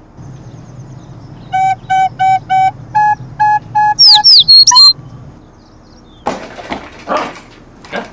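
Eight short piped notes, four on one pitch then four a step higher, answered by a few loud falling whistled chirps like a bird call. Near the end come a few rough rustling noises.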